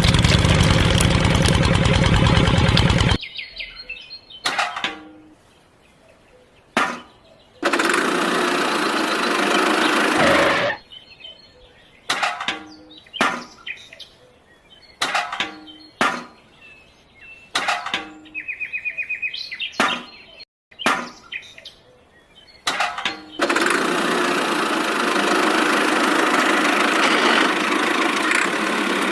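An engine-like running sound that cuts off abruptly about three seconds in. It comes back in short bursts and one longer stretch, then runs steadily again from about two-thirds of the way through.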